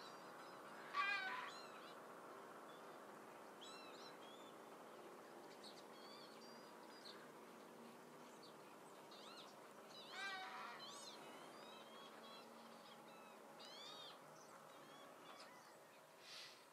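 Faint wild bird calls: scattered short high chirps throughout, with two louder, drawn-out calls about a second in and about ten seconds in.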